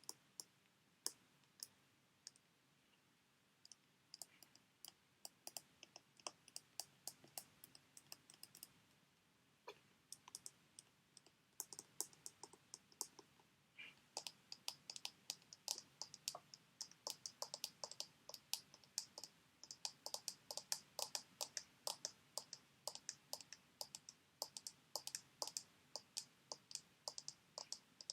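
Fingernails tapping on sheet mask packets: soft, quick clicks, scattered at first, then a fast steady run of taps from about halfway.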